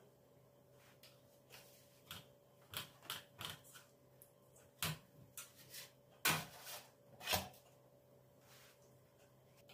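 Irregular light knocks and clicks of household objects being handled and set down, about a dozen over several seconds, with a few louder clacks in the middle, over a faint steady hum.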